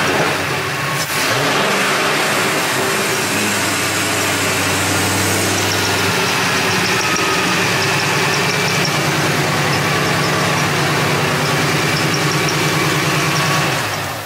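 Car engine idling on a test run with its serpentine belt and pulleys turning, the belt staying on the harmonic balancer after the water pump pulley was pushed back into place. The engine note shifts slightly about six seconds in and the engine shuts off near the end.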